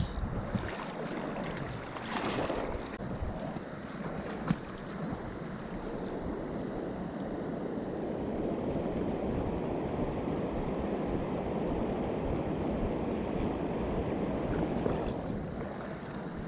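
Mountain stream water rushing and murmuring steadily over the riverbed, with a couple of brief hissing flashes in the first few seconds and a sharp click about four and a half seconds in.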